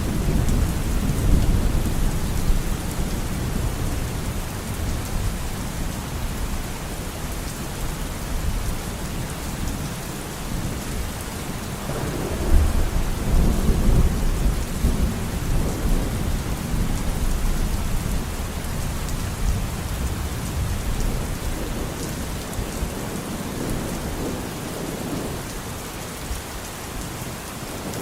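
Steady rain with low rolling thunder rumbling underneath. A louder roll of thunder comes in about 12 seconds in and dies away over several seconds.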